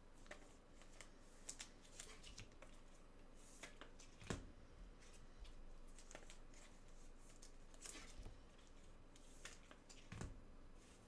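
Faint handling noises of trading cards and their packaging: scattered rustles and light clicks, with one sharper click about four seconds in.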